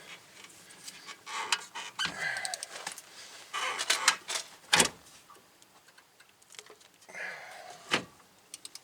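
Scattered metallic clinks, knocks and a short scrape of hand tools and bolts as a rear hub bearing's mounting bolts are fitted. The sharpest knock comes a little under halfway through.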